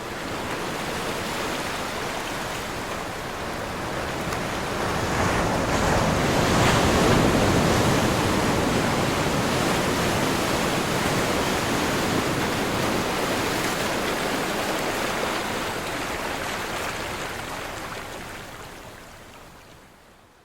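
Ocean surf: the rushing noise of waves breaking, fading in, building to its loudest about six to eight seconds in, then slowly fading out near the end.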